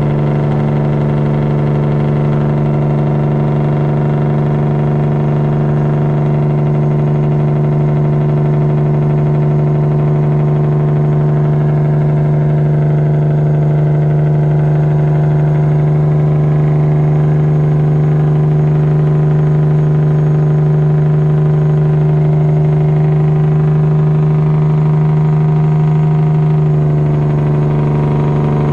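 Straight-piped Detroit diesel in a Freightliner Classic XL, held on its Jake brake (engine compression brake) while descending a steep mountain grade. It makes a loud, steady, even engine-braking note that shifts in pitch near the end.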